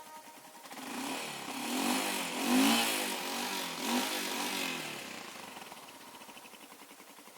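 Royal Enfield Himalayan's 411 cc single-cylinder engine running and revved up and down a few times, the loudest rev about two and a half seconds in, then settling back to a steady idle. The engine has recently swallowed flood water and is being run to clear out the moisture.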